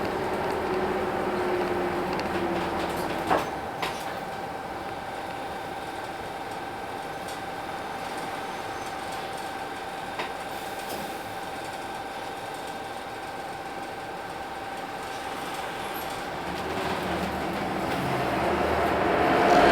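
Hino Blue Ribbon City bus's 10.5-litre P11C diesel and drivetrain: a falling whine as the bus slows, then two short knocks a few seconds in. A steady whine follows while it stands, then a rising whine and louder engine near the end as it pulls away.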